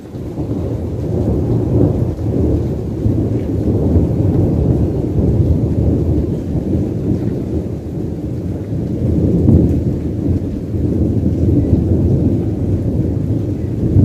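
Thunder rumbling for many seconds after a lightning strike, building over the first second or two and swelling again near the end, heard through a phone's microphone.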